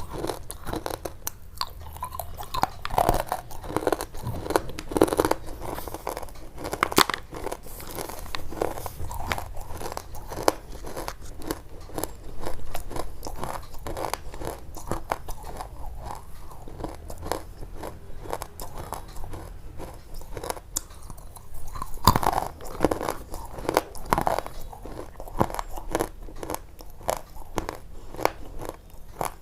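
Close-up crunching, a dense irregular run of crisp crackles and snaps that comes in a little louder in a few bursts.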